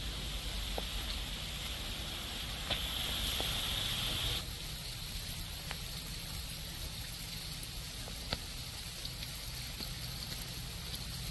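Heavy rain falling on a wet path, with scattered drops ticking. About four seconds in, the brighter hiss drops away and a steadier water sound remains: a stream of water pouring from a pipe onto the ground.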